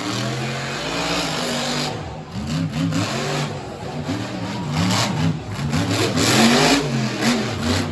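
Monster truck engine revving hard, its pitch climbing and dropping again and again as the throttle is worked during a freestyle run.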